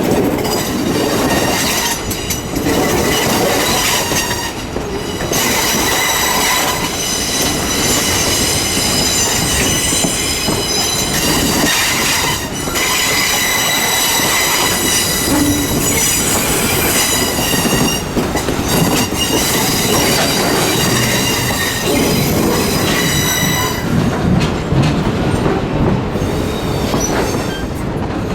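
Train wheels squealing against the rails as the cars roll, a set of steady high-pitched tones over the running noise of the train; the squeal dies away in the last few seconds.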